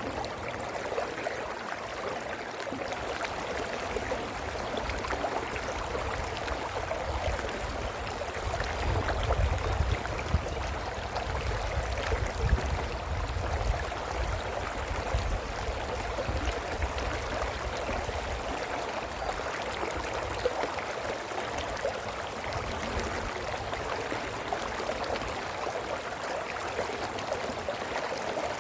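Brook water babbling and gurgling steadily over stones. A low rumble joins underneath from about eight seconds in and fades out around twenty seconds.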